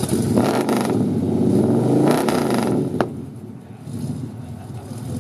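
Car engine revving hard for about three seconds, its pitch rising and falling, then a single sharp crack as it drops back to a steady idle.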